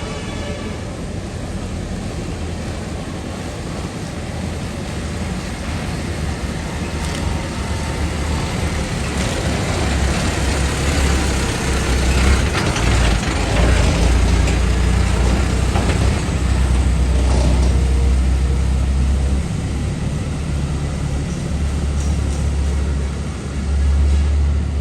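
Four-cylinder diesel engine of a Dongfeng truck running, growing louder partway through and then holding.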